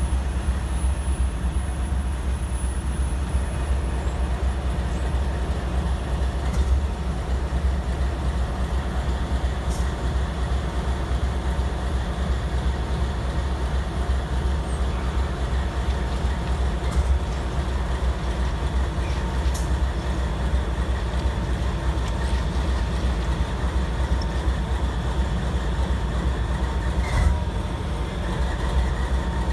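Freight train moving in a rail yard while switching cars: steady low sound of the diesel locomotive and rolling cars, with a few sharp clanks several seconds apart.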